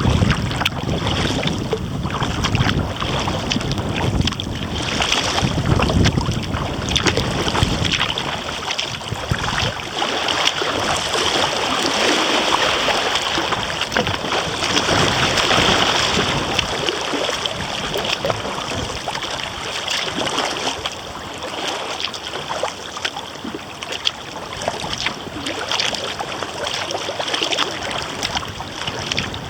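Kayak paddling on wind-chopped water: continuous splashing and dripping from the paddle and hull, with wind rumbling on the microphone, heaviest in the first several seconds.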